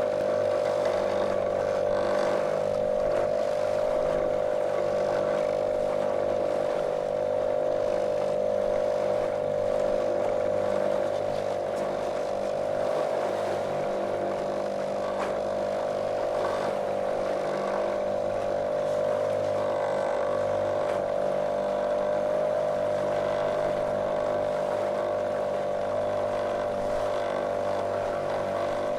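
Small motorboat's motor running at a steady speed: an unchanging, monotonous drone with a strong steady hum.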